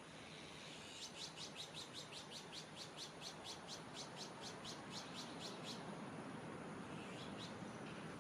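Common kingfisher calling: a rapid run of about twenty sharp, high-pitched notes, roughly four a second, then two more shortly after.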